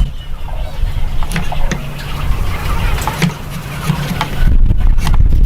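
Hand woodworking on wood: scattered sharp taps and knocks of tools against the workpiece, joined by a low rumble from about four seconds in.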